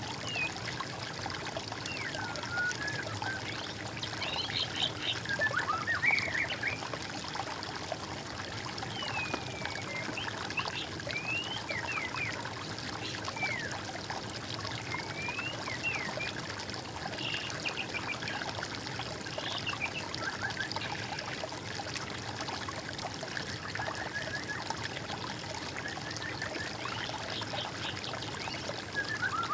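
Steady running water, with birds singing short chirps and whistled calls on and off over it.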